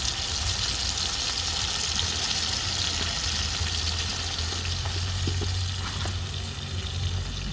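Chicken pieces frying in hot oil in a pot, a steady sizzle, over a low steady rumble.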